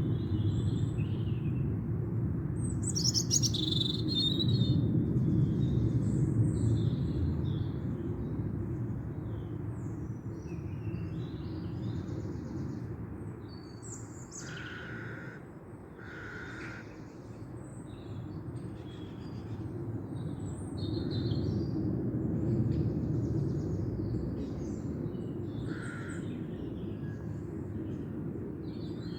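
Wild birds chirping and singing in many short, scattered calls, over a steady low rumble.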